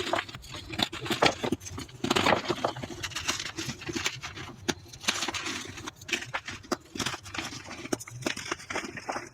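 Reformed gym chalk being crushed and crumbled, a dense run of gritty crunches and sharp crackles. It is played back at double speed, with louder clusters of crunching about two and five seconds in.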